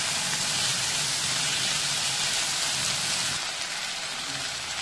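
Onion, tomato and green chilli sizzling in hot oil in a nonstick kadai, a steady frying hiss that eases slightly about three seconds in.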